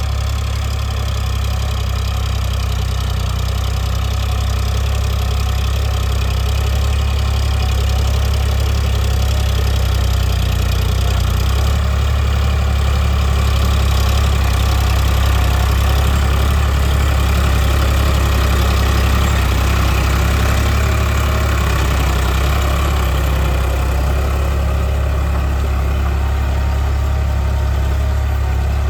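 Eicher 551 4x4 Prima G3 tractor's diesel engine running steadily.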